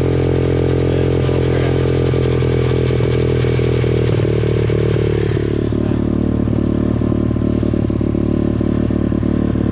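Small dirt-bike engine running hard at a steady speed. Its note drops to a lower pitch about five seconds in, as the throttle eases or it shifts gear.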